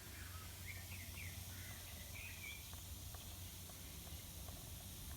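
Faint steady background noise with a few short bird chirps in the first two or three seconds.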